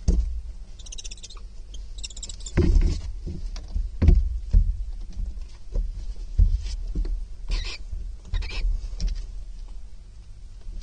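Barn owl chick moving about on the wooden floor of a nest box: irregular thumps, knocks and scratches, with a few short hissing calls.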